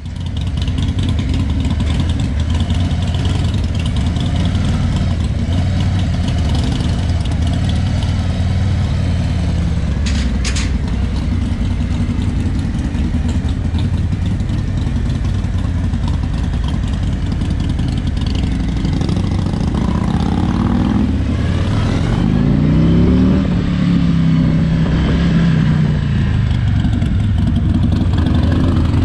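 Harley-Davidson Road King's Milwaukee-Eight 107 V-twin running steadily at low speed. About two-thirds of the way in the revs rise in several short sweeps as the bike pulls away.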